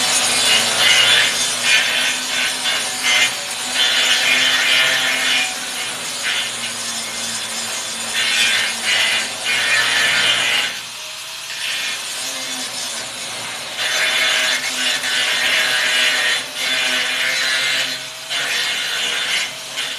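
Angle grinder running against steel, its motor humming steadily under repeated bursts of grinding. It is switched off about halfway through, spins back up, and starts winding down at the very end.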